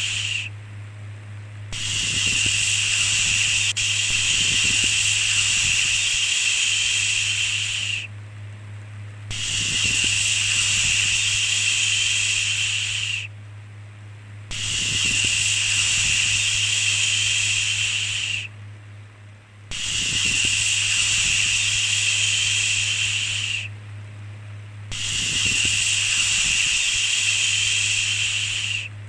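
A long 'shhh' shushing sound, held about four to six seconds at a time with short breaks between, repeated five times over a steady low hum.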